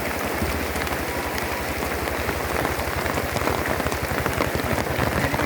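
Steady rain falling, with a low, even throb underneath.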